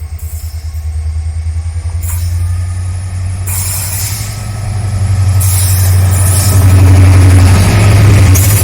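A WDP-4D diesel locomotive's EMD 710G3B two-stroke engine running with a low, steady throb that grows louder as the locomotive approaches, with short bursts of hiss over it.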